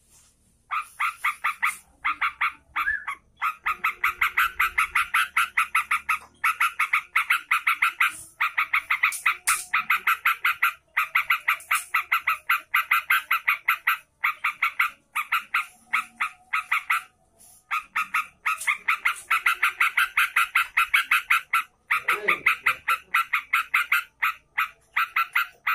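Yellow-vented bulbul (trucukan) calling in long runs of rapid, harsh repeated notes, about five a second, broken by short pauses.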